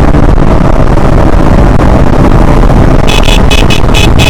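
Wind buffeting the microphone and road rumble on a moving KTM Duke 160. About three seconds in, the bike's electric horn sounds in a rapid series of short beeps.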